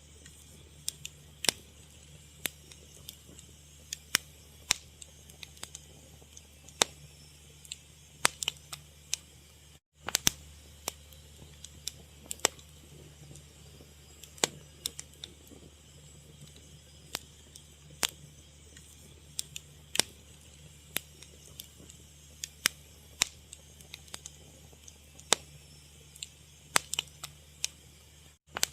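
Fire crackling: sharp, irregular pops and snaps, often several a second, over a low steady hum. The sound cuts out for an instant about ten seconds in and again near the end.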